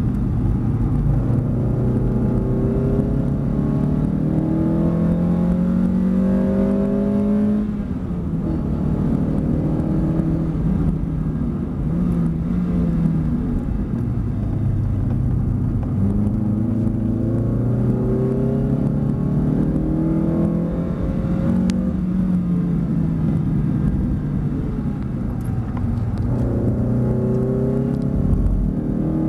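Series 2 Mazda MX-5's four-cylinder engine under hard driving, its pitch climbing steadily and then dropping back several times as the driver accelerates, lifts and changes gear.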